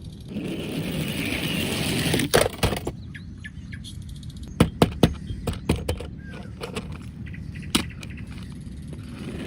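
A rushing noise for about two seconds, then scattered sharp clicks and knocks, a few at a time, of small hard objects being handled.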